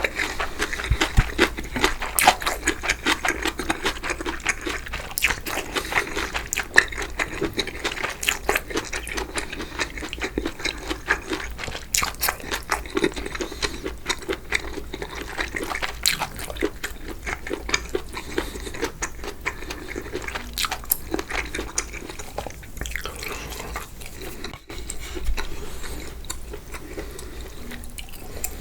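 Mul-naengmyeon, cold noodles in broth, being eaten: slurping, chewing and wet liquid sounds, broken by many short sharp clicks.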